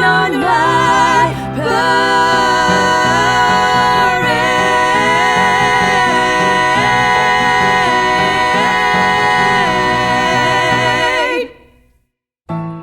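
Female vocal trio singing in close harmony, holding one long chord with vibrato. The chord cuts off suddenly near the end, and after a brief silence new notes begin.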